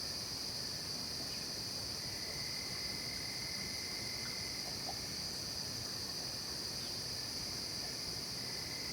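Night chorus of crickets trilling steadily in a high, even band. A fainter, lower thin tone comes in about two seconds in, stops around the middle, and returns near the end.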